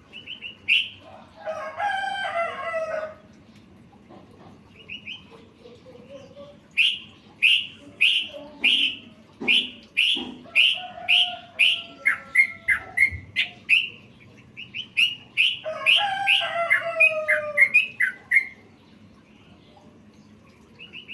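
Yellow-vented bulbul (trucukan) singing: a long run of short, sharp chirped notes, about two a second at first, then quicker and lower. A rooster crows twice in the background, once near the start and again in the second half.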